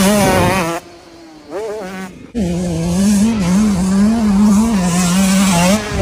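KTM 150SX single-cylinder two-stroke dirt bike engine revving high, its pitch wavering up and down as the throttle is worked. It drops off sharply a little under a second in, surges briefly, and comes back to full revs about two and a half seconds in.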